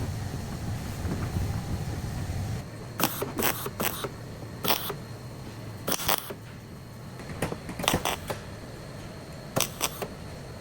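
Sharp clicks and knocks at irregular intervals, from handling tools or parts during repair work on the car. A low rumble runs underneath at first and stops about two and a half seconds in.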